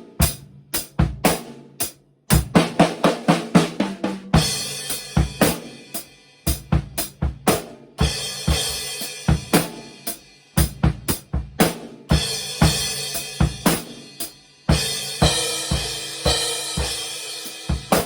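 Drum kit played in grooves and fills, with a Paiste Signature 14-inch Fast Crash cymbal struck repeatedly: a light, bright, thin crash that doesn't ring for long. Bright cymbal washes set in about four, eight, twelve and fifteen seconds in, over steady drum hits, with a last crash near the end.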